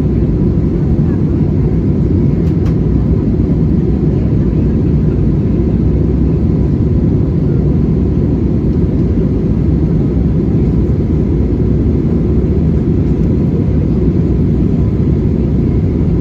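Steady low rumble and rush of an Airbus A320-200's engines and airflow heard from inside the passenger cabin in flight, with a faint thin steady tone above it.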